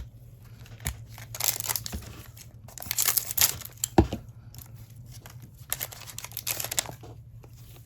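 Foil trading card pack being torn open and its wrapper crinkled, in several rustling bursts with a sharp snap about four seconds in.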